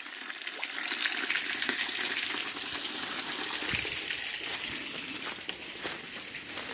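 Water dripping and trickling off a cliffside overhang and splashing onto rock: a steady splashing hiss with scattered individual drips.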